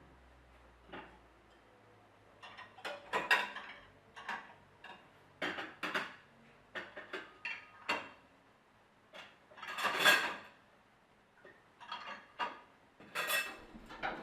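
Dishes and cutlery clinking and knocking as they are put into a dishwasher, in separate clatters every second or two. The loudest and longest clatter comes about ten seconds in.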